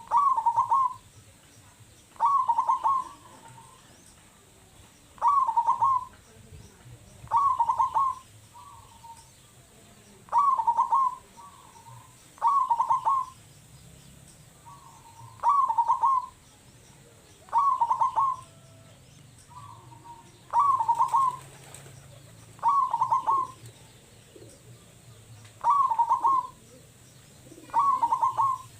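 Zebra dove (perkutut) singing its cooing song over and over, about twelve short phrases coming every two to three seconds, with fainter calls between some of them.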